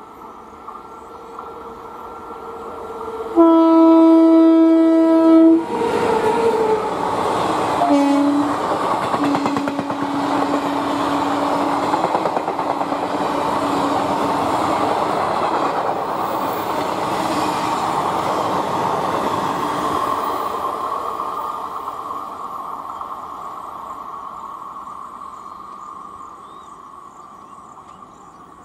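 Indian Railways electric locomotive sounding a loud two-second horn blast, then lower horn notes about eight seconds in and again for a few seconds after. Meanwhile the passenger train passes close with a rising rush and clatter of coach wheels on the rails, which fades away over the last several seconds.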